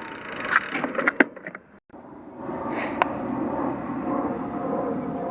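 Steady noise of riding a bicycle, from tyres and wind, broken early on by a few sharp clicks and knocks and a brief moment of near silence, with one more click about three seconds in.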